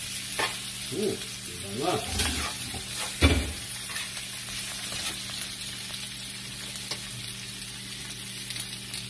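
Onion, ginger and red bell pepper sizzling in hot oil in a wok while a spatula stirs and scrapes them, with a sharp knock about three seconds in.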